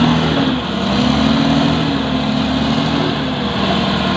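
Heavy diesel engine running steadily, its pitch wavering slightly, from the self-loader truck or the Caterpillar bulldozer being loaded onto it.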